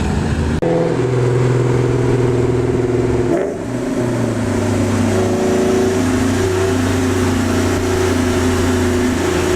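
Car engine pulling under throttle, heard loud and close. About three and a half seconds in there is a short dip in level and the engine note drops, like a gear change, before it carries on steadily.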